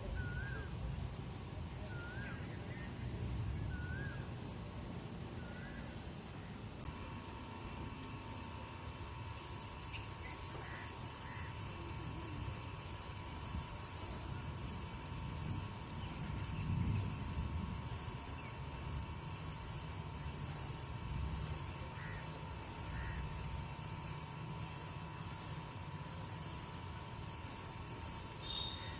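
Oriental magpie-robin calling: short, high, down-slurred whistled notes repeated about every three seconds for the first seven seconds. After that a steady high rhythmic chirping, about two pulses a second, carries on to the end, with a faint steady hum under it.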